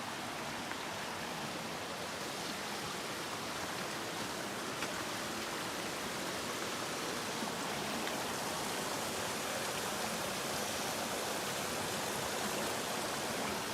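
Mountain brook in spring high water, a steady rush of running water that grows slightly louder toward the end.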